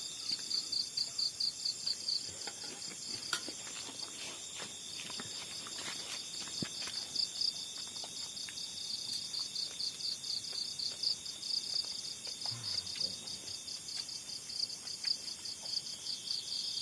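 Chorus of night insects in tropical forest: a steady, high, rapidly pulsing trill, with a few faint clicks and knocks nearby.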